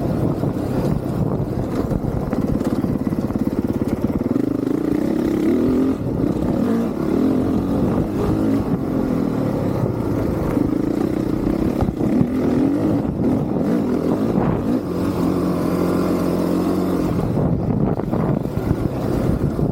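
Honda CRF450R's single-cylinder four-stroke engine revving as the dirt bike is ridden, its note rising and falling repeatedly with throttle and gear changes. It holds a steady pitch for a couple of seconds about three quarters of the way through.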